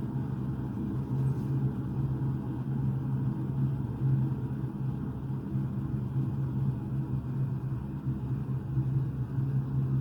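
Electric kettle heating water close to the boil: a steady low-pitched rumbling noise from the water.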